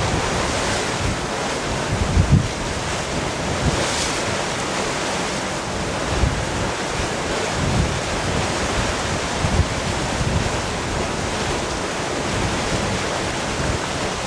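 Steady rushing of wind, with gusts buffeting the microphone in low thumps several times.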